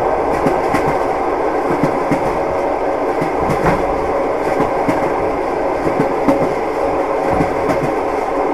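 Passenger train rolling along the track, heard from inside a carriage: a steady rumble of wheels on rail with scattered, irregular clicks and knocks.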